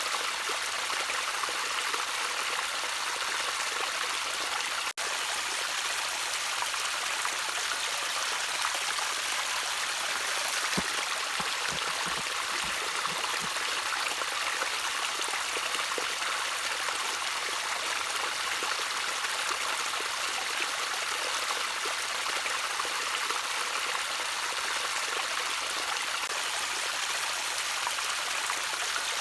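Gently trickling water, a steady even splashing hiss, with a momentary dropout about five seconds in.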